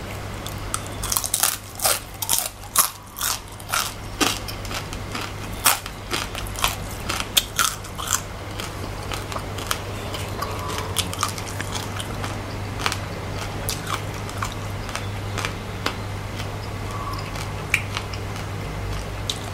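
Crunchy bites and chewing of a deep-fried scorpion's hard shell, dense sharp crunches for the first several seconds, then slower, softer chewing. A steady low hum runs underneath.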